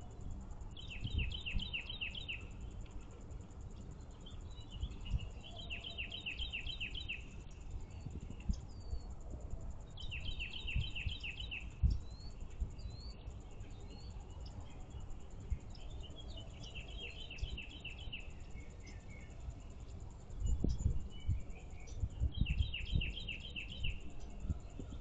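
A songbird singing the same phrase five times, about every five seconds: each phrase is a quick run of high, down-slurred whistled notes. Low rumbles and thumps sound beneath it.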